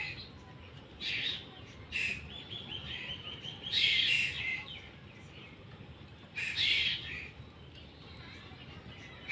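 A bird giving harsh, scratchy calls, about five of them, with a quick rattling run leading into the loudest call in the middle.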